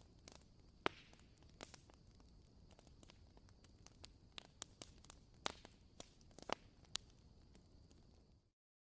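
Wooden candle wick (WoodWick) crackling: irregular, sharp pops and ticks over a faint hiss, like a small campfire. The sound cuts off abruptly near the end.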